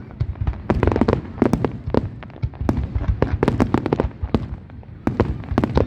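Fireworks display: rapid bangs and crackles in dense volleys over a continuous low rumble of booms, with brief lulls about three and five seconds in.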